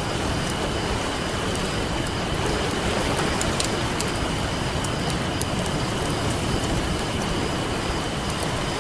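Campfire crackling with small sharp pops scattered throughout, over a steady wash of ocean surf.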